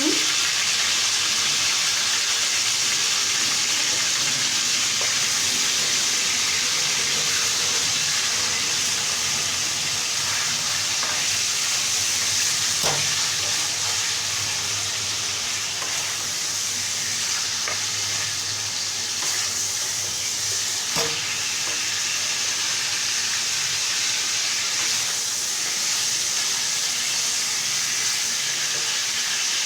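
Chicken pieces sizzling steadily as they lightly fry in hot refined vegetable oil in a pan, with two light knocks about halfway and two-thirds of the way through.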